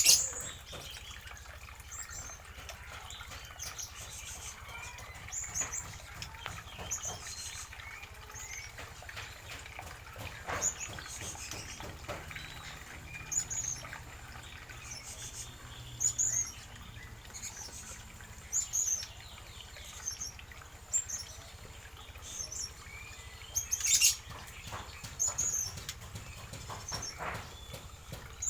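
Aviary birds chirping: short, high chirps every second or two, with a few sharp clicks in between.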